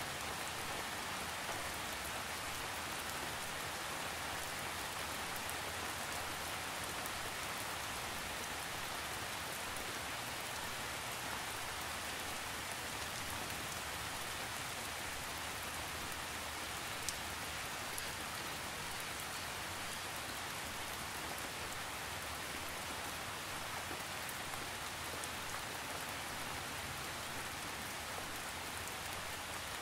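Light, gentle rain falling steadily: an even hiss with scattered individual drop ticks, and one sharper tick a little past halfway.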